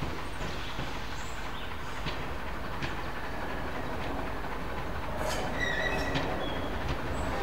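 Heritage passenger train approaching on the rails, its wheels rolling over the track with a steady rumble and clatter. A few short high squeals come in about five to six seconds in.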